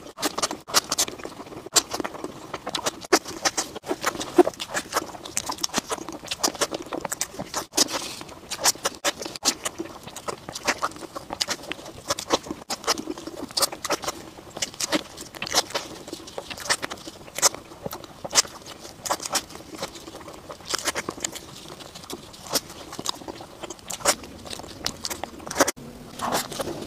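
Close-miked eating sounds: chewing and lip smacking on soft, cream-filled cake, a dense run of small wet clicks from the mouth.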